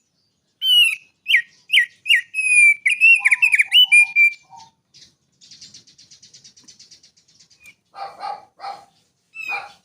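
A songbird singing: a quick run of sharp whistled notes that slide down in pitch, lasting about four seconds, then a thin, dry buzzing trill. A few rougher, harsher notes come near the end.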